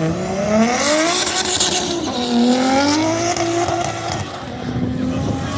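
A car engine revving hard on track, its pitch climbing, dropping sharply about two seconds in as it shifts up, then climbing again. Tyres screech briefly about a second in.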